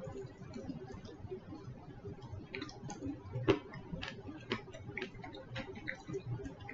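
Quiet chewing: soft mouth clicks at about two a second, with one louder click about three and a half seconds in.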